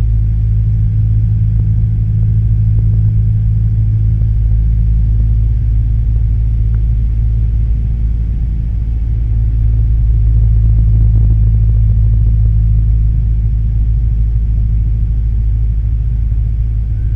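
Cessna 172M Skyhawk's four-cylinder Lycoming engine and propeller running steadily in flight, a loud low drone.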